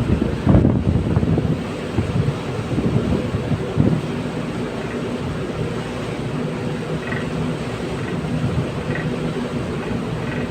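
Wind buffeting the microphone in gusts for the first few seconds, over a steady low rumble and hum of the ship's engines and machinery, which carries on alone after that.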